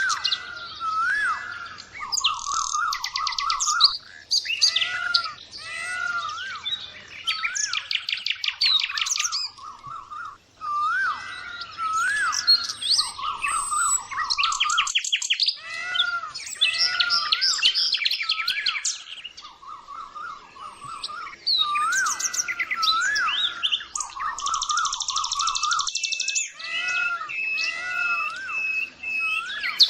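Several songbirds singing together: repeated wavering whistles, fast high trills and chirps that overlap without pause. Near the end comes a run of short, evenly spaced piping notes.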